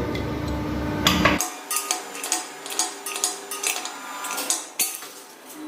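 Spanner and metal nut clinking and scraping as the nut holding the air tank bladder's neck is tightened: a run of sharp metallic clinks at an uneven pace, starting about a second and a half in.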